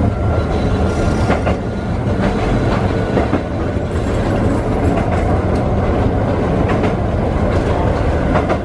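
Electric train running along single track, heard from inside the front cab: a steady rumble of wheels and running gear with wheels clicking over rail joints.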